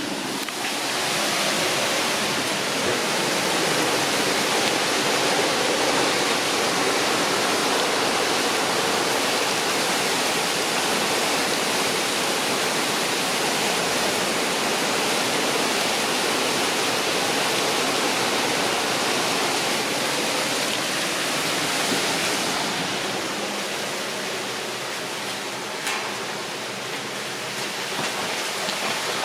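Heavy storm rain pouring down in a dense, steady hiss. It eases a little about three-quarters of the way through.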